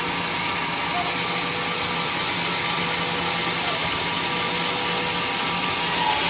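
An engine running steadily at an even speed, a constant mechanical drone.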